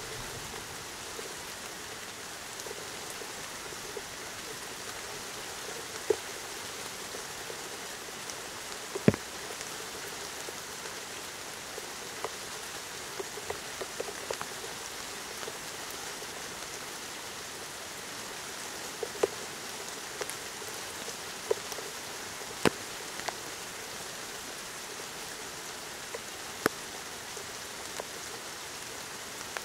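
Steady rain, an even hiss, with single large drops landing close by as sharp ticks every second or few, the loudest about nine seconds in and again near two thirds of the way through.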